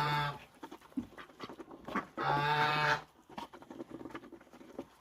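Farmyard animals at feeding time: a busy patter of short pecking and scraping clicks, with one drawn-out animal call about two seconds in.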